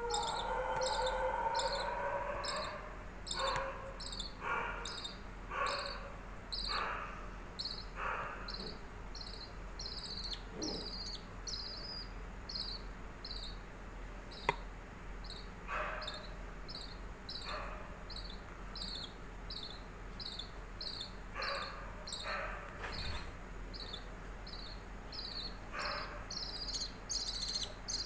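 Cricket chirping in a steady, even rhythm, about two high chirps a second. A few shorter, lower calls come in between, and a drawn-out falling call opens the stretch.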